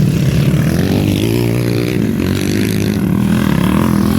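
Motocross dirt-bike engines revving during a race, rising and falling in pitch as the riders open and close the throttle.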